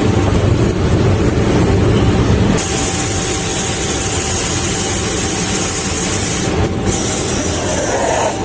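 Sandblasting equipment running with a steady loud rumble. A high hiss of blasting air starts about two and a half seconds in, breaks off for a moment and stops at the end.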